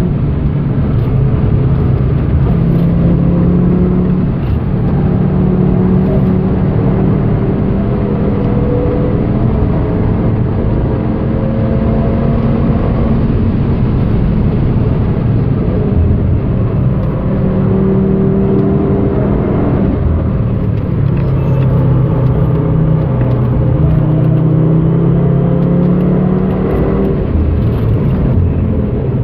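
Turbocharged five-cylinder engine of a 2013 Audi TT RS pulling hard in fourth gear at around 5,000 rpm, heard from inside the cabin with steady road and wind noise. Its pitch rises and falls as the car accelerates and slows for corners.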